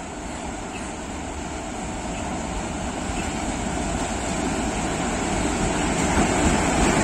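Indian Railways electric locomotive hauling a passenger train along a station track: a steady running noise of wheels and machinery that grows louder as the train draws near.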